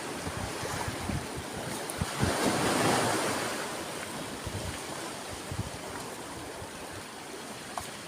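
Sea waves breaking on a shore. One wave surges up about two seconds in, peaks, then washes back and fades. Wind rumbles on the microphone.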